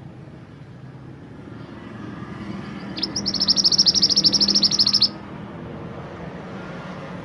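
A mantenan gunung songbird sings one high trill of rapid repeated notes, about a dozen a second, starting about three seconds in and cutting off sharply two seconds later. A steady low rumble runs underneath.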